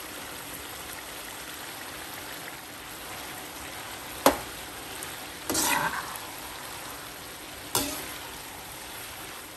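Minced meat and freshly added chopped onions sizzling in hot oil in a wok, a steady frying hiss. A metal slotted spoon stirs through it, knocking sharply on the pan about four seconds in, scraping briefly a second later, and knocking again near the end.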